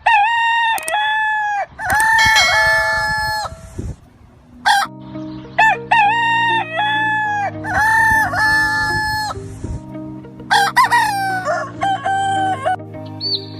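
A rooster crowing again and again, several long drawn-out crows, with low sustained background music coming in about five seconds in.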